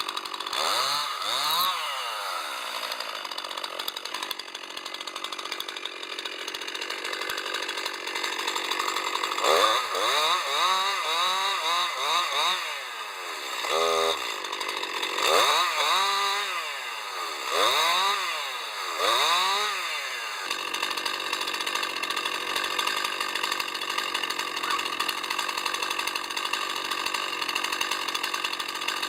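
Chainsaw engine revving up and down several times, then running at a steady speed for the last third.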